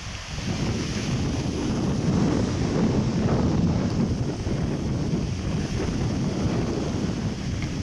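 Wind buffeting the microphone over the wash of sea surf, a steady, rumbling noise that swells and eases.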